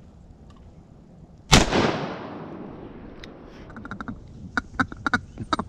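A single close shotgun shot, the loudest sound, echoing and dying away slowly. From about two seconds later, ducks quacking in quick short calls.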